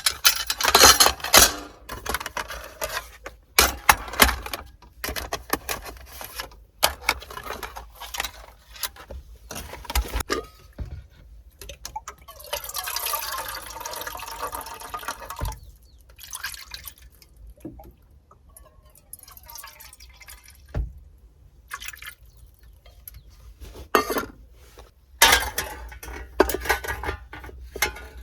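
Liquid being poured, with clinks and knocks of cups or containers being handled. A steady pour lasts about three seconds near the middle.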